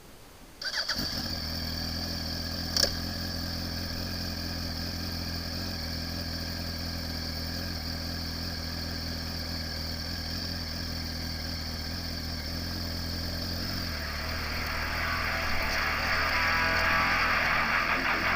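Yamaha YZF-R1's rebuilt inline-four engine starting up about a second in and then idling steadily, with one sharp click a couple of seconds later. Over the last few seconds a louder, noisier sound builds on top of it.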